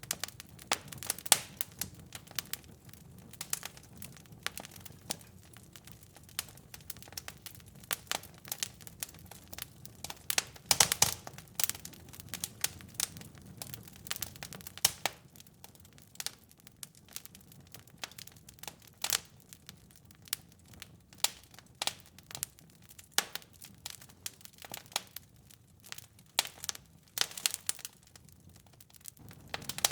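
Wood fire burning in a fireplace: irregular sharp crackles and pops over a soft low rumble of the flames, with a denser run of louder pops about eleven seconds in.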